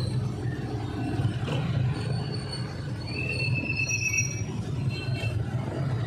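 A motorcycle runs along a town road with steady low engine and road noise. About three seconds in, a high-pitched squeal sounds for about a second.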